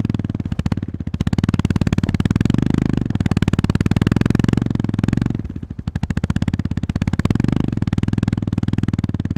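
Honda GB350S's air-cooled single-cylinder engine pulsing under throttle while riding. The throttle is rolled off briefly a little past halfway, then opened again.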